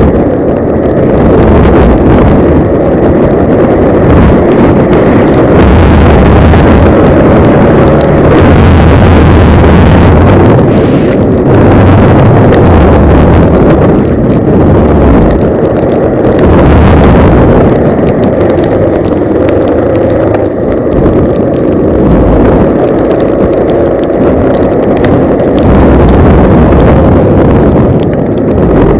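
Yamaha Lander 250 motorcycle's single-cylinder engine running on the move, with heavy wind rumble on the microphone.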